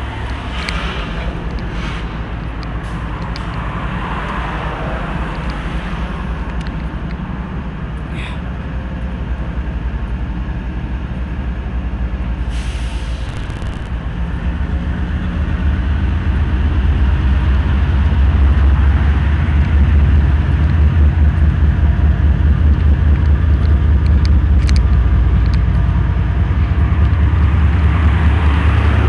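Union Pacific freight rock train rumbling along, a heavy low rumble that grows louder about halfway through. There is a short hiss about thirteen seconds in.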